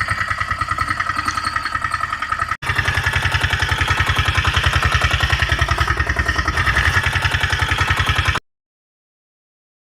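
Tractor engine sound chugging steadily at about ten beats a second. It breaks off for an instant a little over two seconds in, resumes, and cuts off abruptly near the end.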